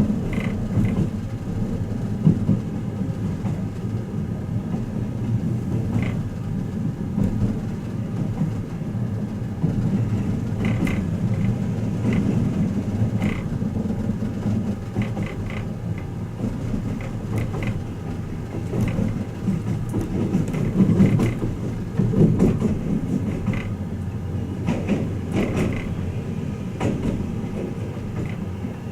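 Twilight Express Mizukaze train running, heard inside a passenger compartment: a steady low rumble with scattered light clicks and ticks.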